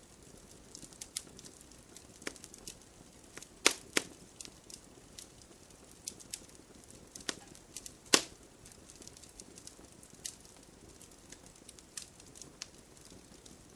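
Wood bonfire crackling: irregular sharp snaps and pops over a soft low rush of flames, with the loudest pops about four seconds in and about eight seconds in.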